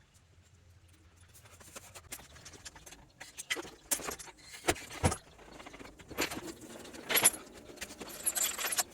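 Metal clinking and knocking, with rattling and scraping, as metal parts or tools are handled. It starts a few seconds in and grows busier toward the end.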